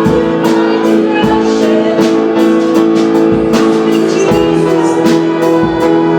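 Live worship band playing an instrumental passage: held chords over a steady beat of about two strokes a second.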